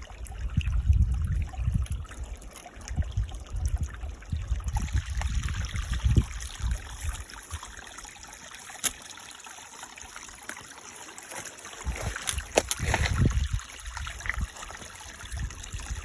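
A stream's water running and trickling. Low buffeting on the microphone comes and goes, heaviest in the first half and again near the end, with a couple of sharp clicks.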